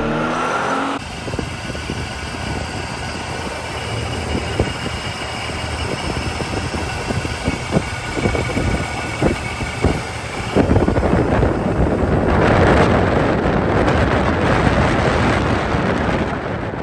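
Supercharged big-block V8 of a 2003 Chevrolet Silverado 2500HD running, with a few sharp clicks in the middle and growing louder in the second half.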